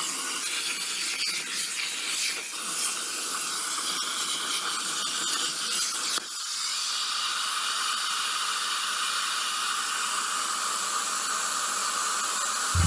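A Harbor Freight plasma cutter's torch cutting on a CNC table: a steady, loud hiss of the plasma arc and air, with a brief break about six seconds in before it carries on.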